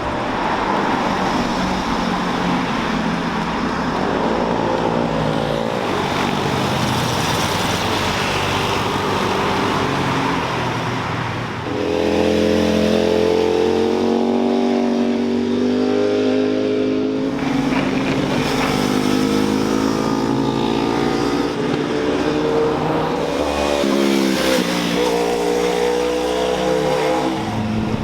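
Sport motorcycle and car engines passing one after another at speed, revving hard and climbing in pitch through gear changes.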